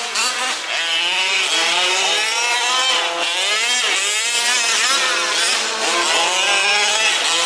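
Several 1/5th-scale RC off-road trucks' small two-stroke petrol engines racing at once, their pitches overlapping and rising and falling as they rev and back off.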